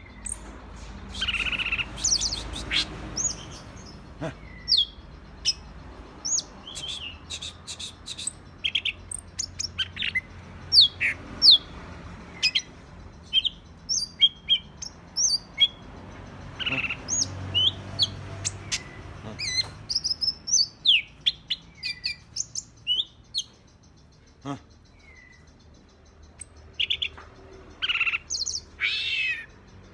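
Green leafbird (cucak ijo) singing a rapid, varied string of sharp chirps and quick downward-sweeping whistled notes, with short pauses between phrases and a few longer, harsher notes near the end.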